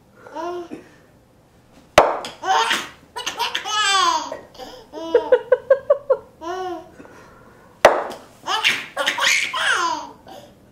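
A young child laughing in bursts of high-pitched, rising and falling squeals. There are two sharp clicks, one about two seconds in and one about eight seconds in.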